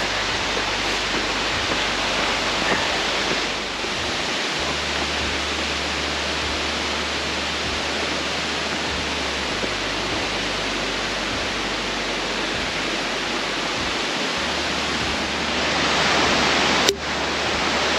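Steady rush of a small waterfall, water pouring and splashing, growing louder about two seconds before the end, with a single sharp click near the end.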